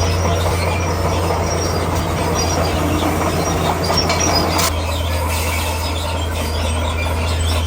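Komatsu D41P crawler bulldozer's diesel engine running under load with a steady low drone, its steel tracks squealing and clanking. The sound shifts sharply about four and a half seconds in.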